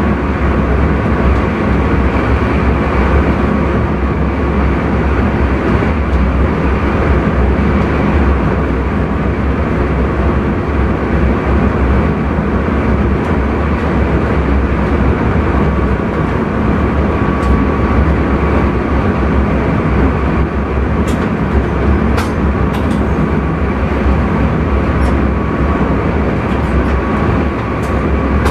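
Intercity train running at speed, heard from the driver's cab: a steady rumble and rolling noise with no change in pace. A few light clicks come in near the end.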